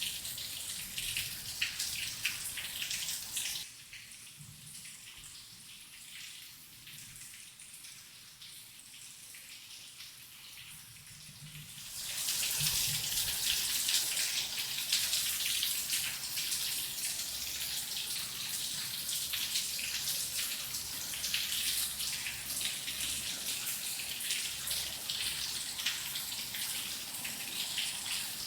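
Steady rain falling, a dense hiss of drops. About four seconds in it eases to a softer, thinner patter, then picks up heavier again about twelve seconds in.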